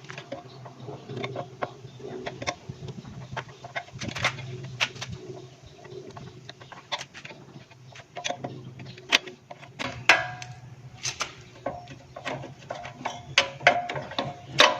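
Scattered clicks and knocks of hand tools and small engine parts being handled while the rotovator's fuel system is taken apart.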